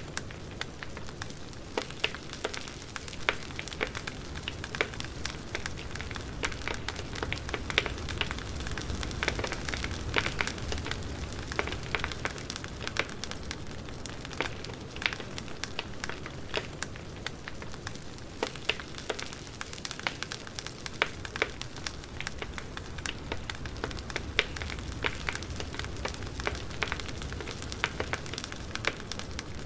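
Campfire crackling and popping: many irregular sharp snaps over a steady hiss and low rumble of burning wood.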